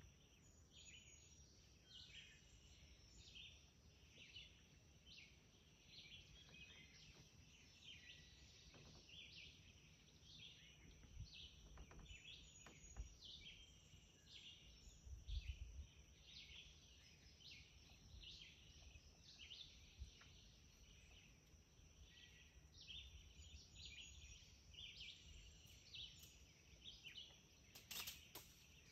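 Faint woodland ambience: small birds chirping over and over, about once or twice a second, over a steady faint high tone. A soft low bump comes about halfway through.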